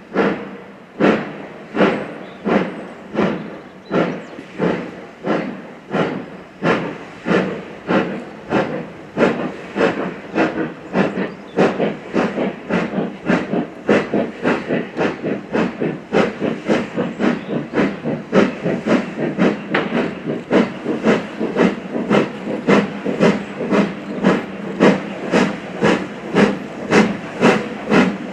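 Steam locomotive exhaust beats as it works a train, sharp chuffs in a steady rhythm that gradually quickens as it picks up speed.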